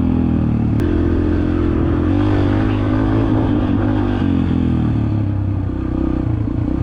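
Yamaha TT-R125 dirt bike's single-cylinder four-stroke engine running under load while being ridden, its pitch climbing and dropping several times with throttle and gear changes.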